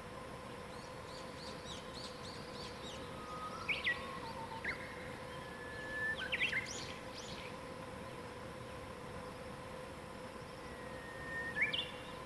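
Songbirds singing against a steady background hiss: faint quick chirps in the first few seconds, then three louder phrases, each a held whistled note breaking into quick higher notes, about four, six and eleven seconds in.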